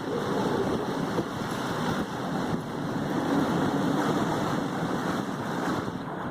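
Steady rushing of wind on the microphone mixed with surf washing up the beach.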